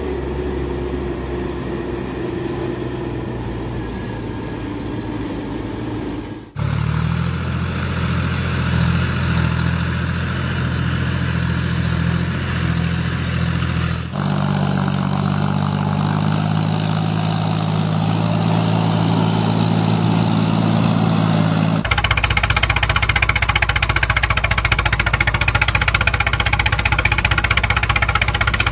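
Engine running steadily at a fixed pitch, in several segments spliced together: the hum changes abruptly to a different pitch and tone about a quarter of the way in, again near the middle, and again about three quarters through.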